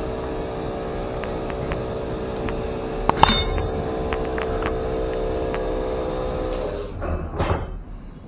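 Vertical cylinder boring machine running with a steady hum, with a sharp metallic clink about three seconds in and lighter ticks. The hum stops about seven seconds in, followed by a couple of short clatters.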